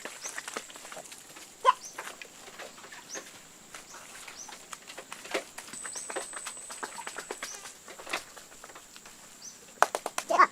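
Chickens clucking, with one louder call about a second and a half in and short high chirps recurring. Scattered clicks and knocks run throughout.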